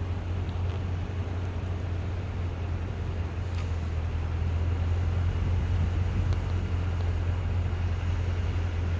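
Steady low drone of a car's engine and road noise, heard from inside the cabin while driving.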